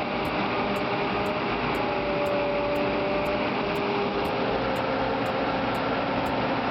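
Engine of a self-propelled modular transporter running steadily under a heavy load, with a thin steady whine.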